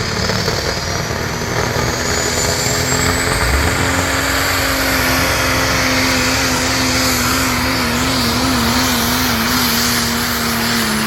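Pro Stock 4x4 diesel truck under full throttle pulling the sled, its engine holding a steady high note while a turbo whistle rises over the first few seconds. The engine note wavers up and down through the second half and begins to drop right at the end as the throttle comes off.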